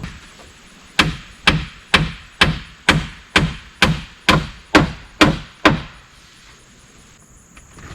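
Hammer driving a nail into a wooden roof strip: about eleven strikes in a steady rhythm of roughly two a second, each ringing briefly, stopping a little before six seconds in.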